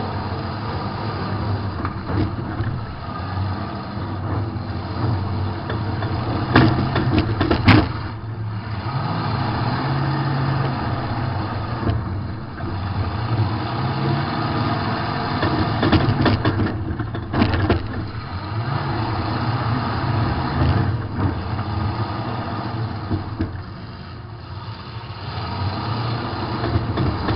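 Demolition derby car's engine heard from inside the car, running hard, its pitch rising and falling as it revs, with sharp crash impacts about seven seconds in and again around seventeen seconds.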